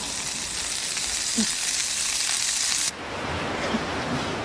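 Takoyaki sizzling on a hot takoyaki griddle: a steady frying hiss that turns duller and slightly softer about three seconds in, then carries on.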